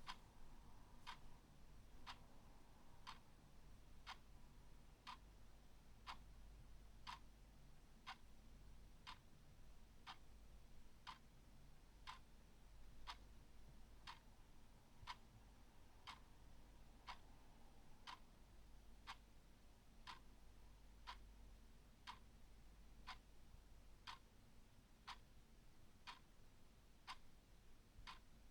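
A clock ticking steadily, about one faint, sharp tick a second.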